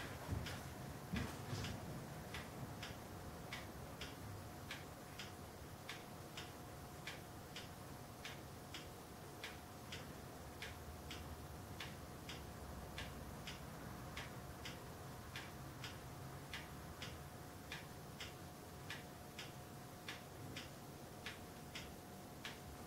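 A clock ticking steadily and evenly, roughly three ticks every two seconds, faint, over a faint steady hum.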